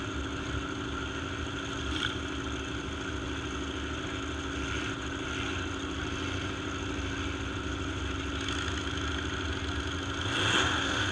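Engines of demolition derby trucks running steadily as they pull into the arena, with a brief louder swell near the end.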